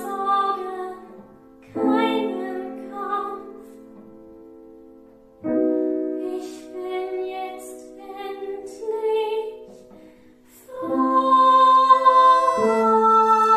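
A woman singing a slow song over piano chords, each chord struck and left to ring; new chords come in about five and a half and eleven seconds in.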